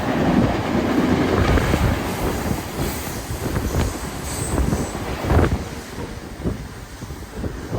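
Train passing on the rails, its wheels knocking over the track with a brief faint high squeal about four seconds in; the sound grows quieter through the second half.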